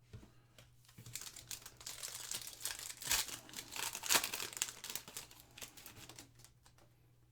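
Foil trading-card pack wrapper being torn open and crinkled by hand, a dense crackle of small clicks that builds after about a second and dies away near the end.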